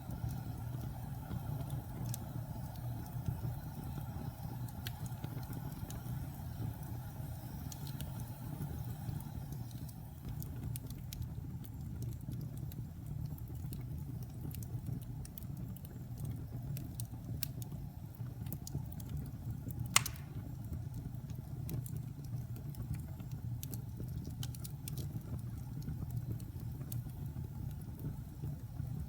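Wood fire crackling in a fireplace: a steady low rumble of flames with scattered small pops and one sharp, loud crack about twenty seconds in.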